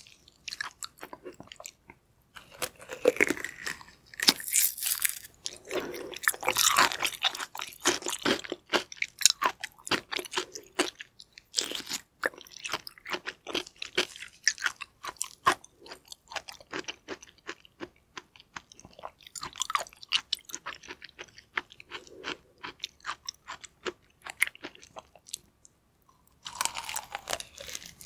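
Chewing and biting into a whole piece of yellow stingray liver: wet clicks and smacks of soft, rich flesh being chewed, with a denser run of bites between about three and eight seconds in.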